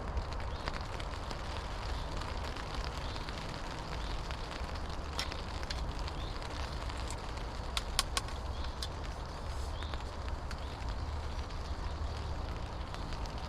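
Wood campfire burning with a steady crackle and a few sharp pops, the loudest about eight seconds in.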